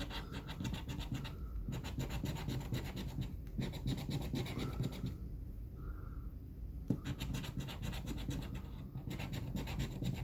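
Scratch-off lottery ticket being scratched, rapid scraping strokes across the coating in several spells with short pauses, the longest pause about halfway through.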